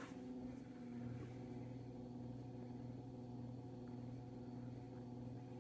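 2012 LG top-load washer's motor giving a steady low hum with several pitched overtones while the machine senses the load at the start of the Delicates cycle, before the water fills.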